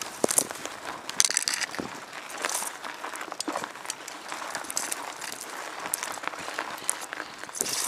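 Footsteps crunching on a loose, dry surface: an irregular run of crunches and crackles over a light outdoor hiss.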